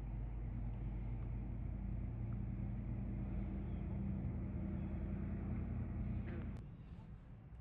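A motor running steadily with a low, even hum, cutting off abruptly about six and a half seconds in.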